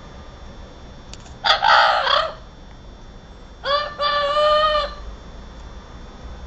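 Parrot calling: a harsh squawk about a second and a half in, then a two-part call around four seconds in, a short note followed by a longer held one with a clear pitch.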